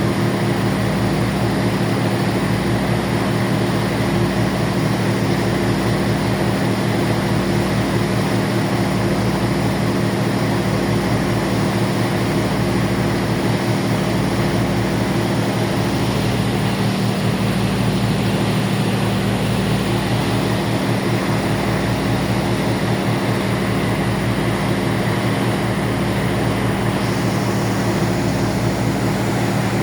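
A ferry's engines running steadily, heard on board as a loud, even drone with a deep throb that swells and fades about every second or two.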